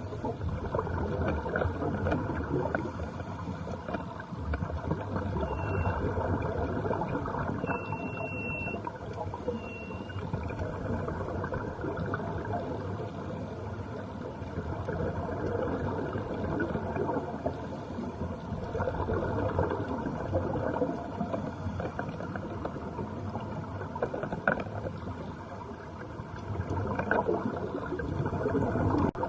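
A tour boat's engine running steadily with water rushing along the hull, a continuous noisy rumble. Three short high beeps sound about six to ten seconds in.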